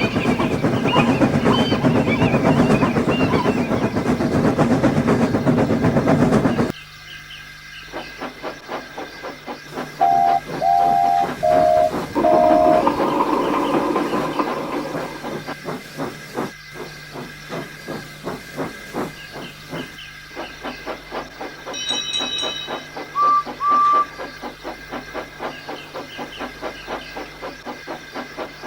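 Steam locomotive sounds: loud hissing steam for the first six or seven seconds that cuts off abruptly, then a steady rhythmic clatter of wheels on track. A whistle sounds four short notes, the last two lower, about ten seconds in, and two short higher whistle toots come near the end.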